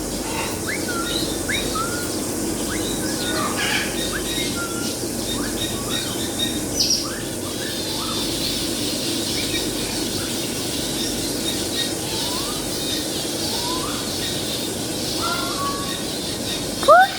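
Many parrots calling at once: a steady loud din of short rising chirps, whistles and squawks, with no single call standing out for long.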